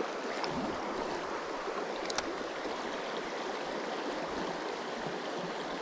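Flowing stream water, a steady rushing, with a couple of faint clicks about two seconds in.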